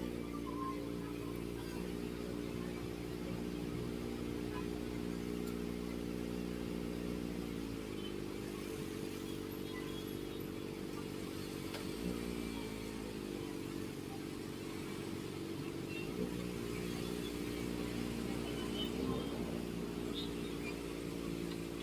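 Kawasaki ZX-4RR's 399 cc inline-four running through an SC Project aftermarket exhaust while riding, its note steady for long stretches. The pitch falls away about a third of the way in and dips and picks up again twice later, as the rider eases off and shifts.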